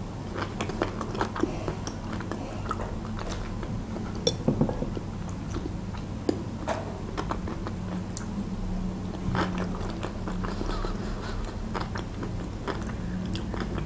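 Close-up chewing of a mouthful of Olivier salad, with irregular small wet clicks and smacks from the mouth.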